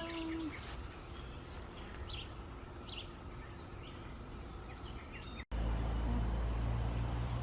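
Outdoor background with a few short, scattered bird chirps over a steady hiss. About five and a half seconds in, the sound cuts abruptly to a louder, steady low rumble.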